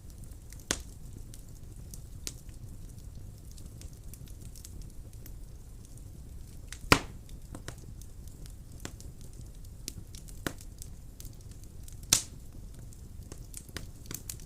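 Wood fire burning in a fireplace: a steady low rumble of flames with scattered crackles and sharp pops of burning wood. The loudest pops come about seven seconds in and again near twelve seconds.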